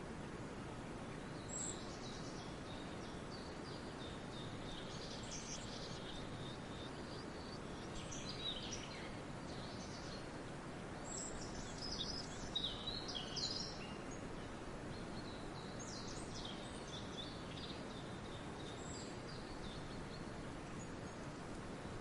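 Songbirds singing in several separate bursts of high chirps and short trills, the loudest about two-thirds of the way through, over a steady background hiss.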